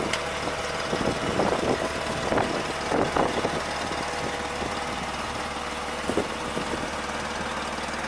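Off-road vehicle engine idling steadily, with a few irregular knocks and crunches in the first few seconds and one more about six seconds in.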